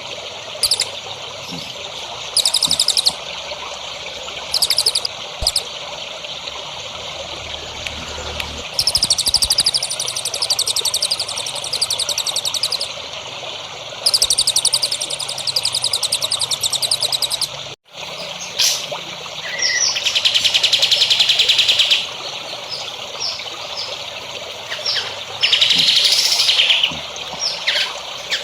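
Songbirds singing in bursts of fast, high trills a few seconds long, over a steady trickle of running water. The sound drops out for an instant a little past halfway, and buzzier bird calls follow.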